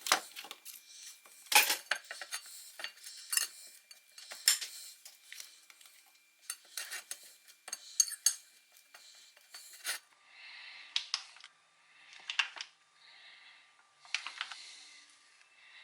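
Cutlery and dishes clinking, knocking and scraping in a string of sharp clicks, the sound turning duller about ten seconds in.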